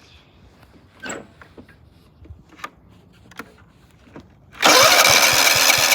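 MTD Yard Machine riding mower's electric starter cranking the cold engine, setting in suddenly about four and a half seconds in with a rising whine and running loud for about two seconds; the engine does not catch.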